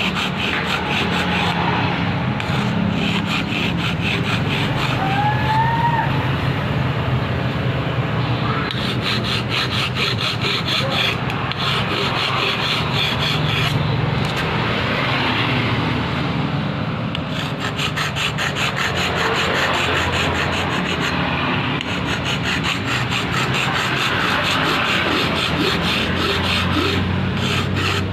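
Rasping of a hand tool worked in quick repeated strokes, steady throughout.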